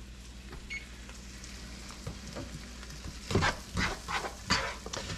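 Onions sizzling in a frying pan, with a few sharp scrapes and knocks of stirring about three and a half to four and a half seconds in.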